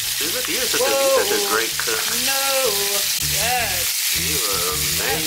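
Chicken thighs sizzling in olive oil in a skillet, a steady frying hiss. A wavering melody of held and sliding notes runs over the sizzle.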